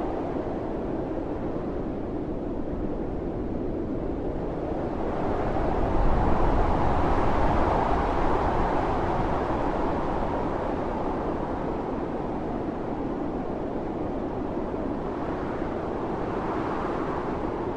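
Storm wind blowing hard, with one strong gust that swells about five seconds in and dies back down over the next several seconds.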